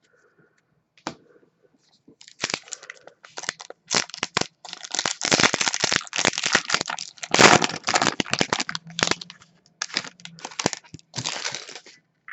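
Crinkly foil wrapper of a hockey card pack being torn open and crumpled by hand: a run of crackling and crinkling, loudest in the middle.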